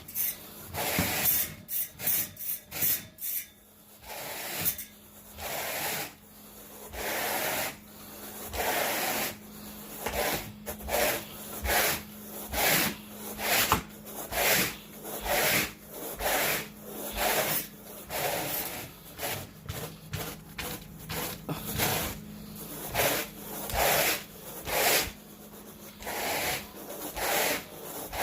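Carpet rake dragged through carpet pile in repeated rasping strokes, about one a second, quicker and choppier in the first few seconds.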